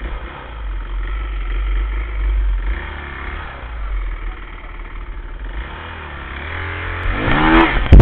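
Dirt bike engine running with the revs rising and falling, then revving up steeply in pitch near the end.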